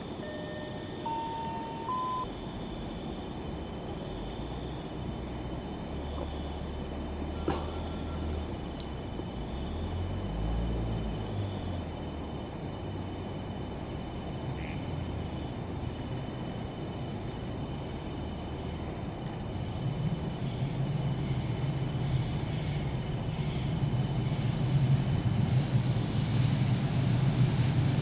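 A train drawn by a diesel locomotive approaching the station, its low engine rumble building steadily louder over the last several seconds. Insects chirp in steady high tones throughout.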